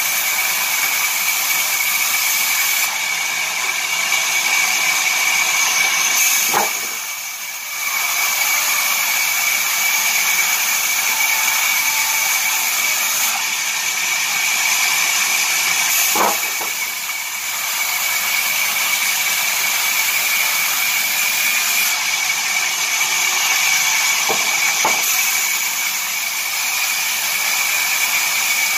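Sawmill saw running, a steady loud hissing noise with a constant high whine through it. The sound drops away briefly twice, with a few short knocks.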